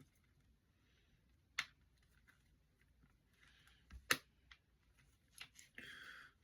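Faint handling sounds of CD cases and packaging: a few sharp plastic clicks, the loudest about four seconds in, and a short rustle near the end.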